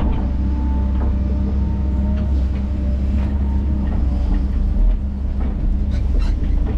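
Crawler bulldozer's diesel engine running steadily, with scattered clanks from the steel tracks as it works; a louder knock about five seconds in.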